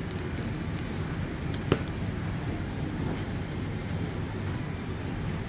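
Steady low outdoor rumble, with one sharp click about a second and a half in.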